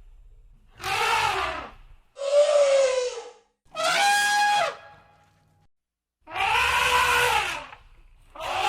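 Elephant trumpet calls: five short, loud blasts of about a second each, separated by brief pauses. The pitch bends and falls in most of them, and the one about four seconds in is a steadier, more brassy blast.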